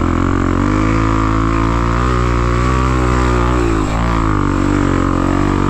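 Dirt bike engines running, one with its pitch wavering up and down under the throttle and dipping briefly about four seconds in before climbing again.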